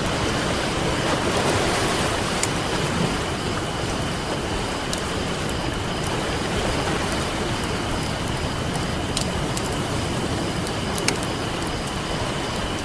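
Ocean surf washing steadily, with a campfire crackling in a few sharp, scattered pops, the loudest near the end.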